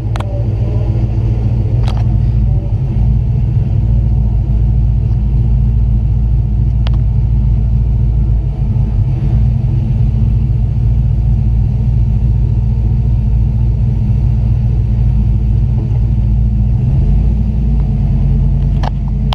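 Chevy S10's swapped-in LT1 V8 idling steadily with a deep low rumble while waiting to launch, heard from inside the truck. A few faint clicks sound over it.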